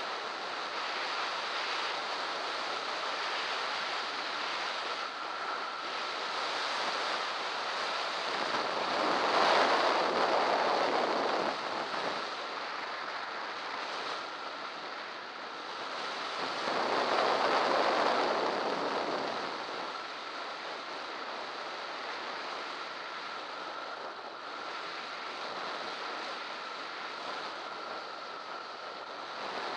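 Wind rushing over the microphone of a camera on a fast bicycle descent: a steady noise that swells louder twice, about ten seconds in and again about seventeen seconds in, with a thin steady tone running underneath.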